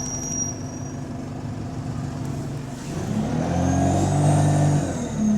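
Diesel bus engine idling with a steady hum, then pulling away about three seconds in, its note rising and getting louder with a faint high whine over it. It is noisy from an exhaust leak.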